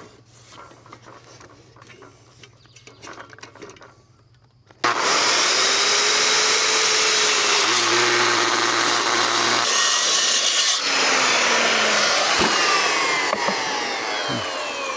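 A metal-cutting power saw starts suddenly about five seconds in and cuts through heavy steel plate for several seconds. After about eleven seconds the blade winds down, its pitch falling as it coasts to a stop. Light clicks and handling noises come before the cut.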